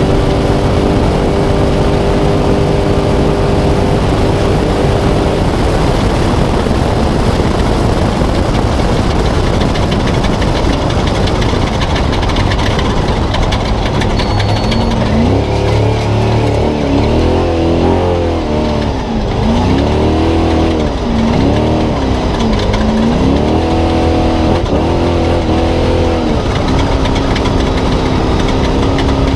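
Spec trophy truck engine heard from inside the cab, running steadily at high revs at first, then buried under loud rattling and road noise. Through the second half the revs rise and fall over and over as the throttle is worked.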